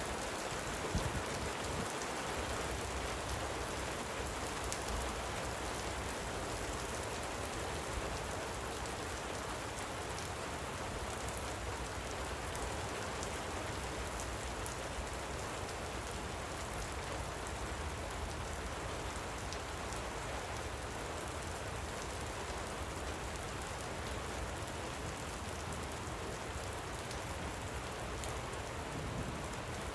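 Steady light rain falling, with a fine patter of drops.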